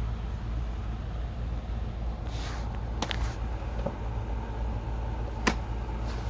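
A plastic DVD case and disc being handled: a brief rustle and a few sharp plastic clicks over a steady low hum.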